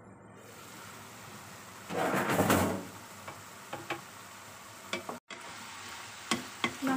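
White radish and dried shrimp sizzling in a wok as the braising water cooks off, with a louder rush of hissing about two seconds in. Several sharp knocks of a wooden spatula against the wok follow as the stir-fry is stirred.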